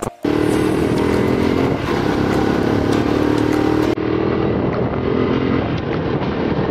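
Yamaha R15 V2.0's 150 cc single-cylinder engine running steadily while the bike is ridden along the road. From about four seconds in the engine note is mixed with wind rush.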